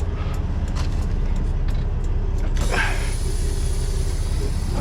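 Semi truck's diesel engine idling with a steady low rumble, with a few light clicks in the first second. About halfway through, a hiss joins in and keeps going.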